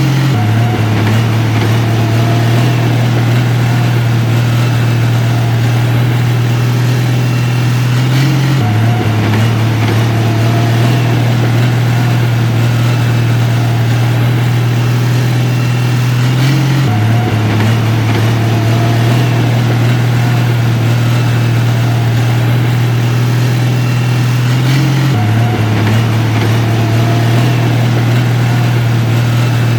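Heavy construction machine's diesel engine running steadily with a deep, even hum. The same slight change in its note recurs about every eight seconds.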